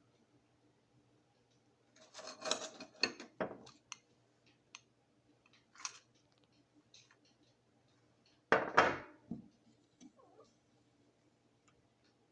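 Crushed ice crunching in the mouth as it is bitten and chewed, in two bouts of crisp crunches: one from about two seconds in and a louder one near the nine-second mark, with a few small clicks between.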